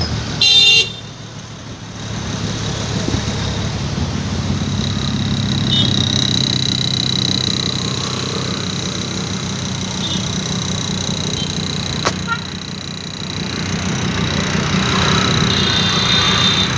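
A short vehicle horn toot about half a second in, followed by the steady running noise of a motor vehicle.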